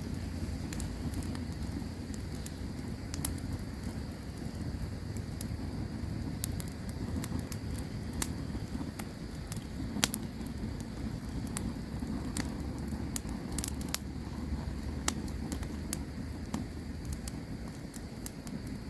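Campfire crackling: sharp pops scattered irregularly throughout, the loudest about ten seconds in, over a steady low rumble, with a faint steady high-pitched hum behind.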